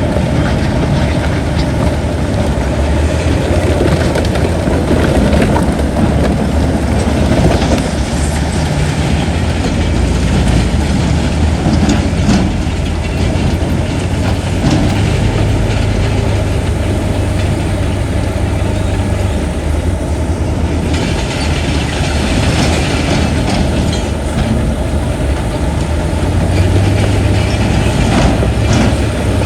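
Bulldozer's diesel engine running steadily under load, with scattered clanks and knocks from the machine's metal parts and tracks.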